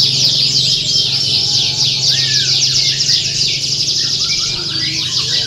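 Many canaries singing at once, a dense, unbroken chorus of fast overlapping trills and chirps, over a steady low hum.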